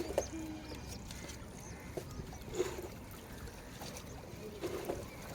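Water sloshing and trickling around a small boat on a river, with a few light knocks at irregular intervals.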